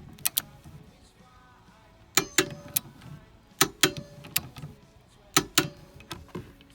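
Click-type torque wrench clicking as it reaches its set torque on seat belt anchor bolts, set to about 47 N·m. Sharp double clicks come repeatedly, several times over, as the wrench is pulled again to check.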